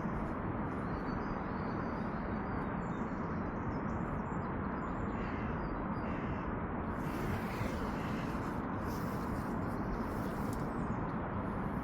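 Steady outdoor background noise with faint bird calls, among them crow-like caws, at times in the middle.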